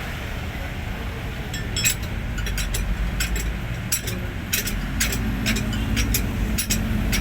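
Hino 500 truck's diesel engine running with a steady low rumble, joined about a second and a half in by a string of sharp metallic clicks, roughly three a second.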